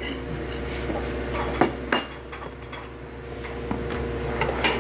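Cutlery clinking against plates and dishes during a meal, a few sharp clinks over a steady low hum.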